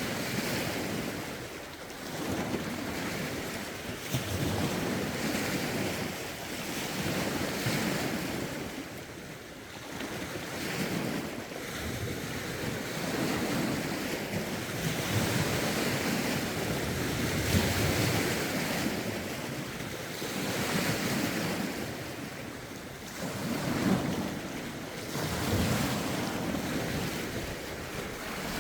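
Lake waves washing against the shore in uneven surges every few seconds, with a strong wind gusting across the phone's microphone.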